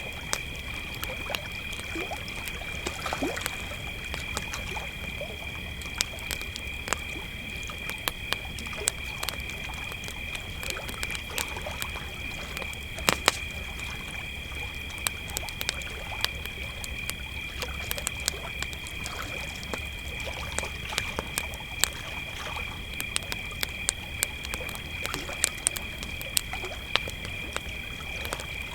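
Crickets chirping in a steady high chorus, with a campfire crackling and popping in short, irregular sharp snaps over a low steady rumble.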